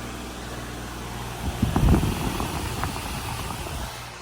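2011 Ducane heat pump's outdoor unit running in cooling mode: a steady hum from the compressor with the condenser fan's rush. A brief low rumble comes through about two seconds in.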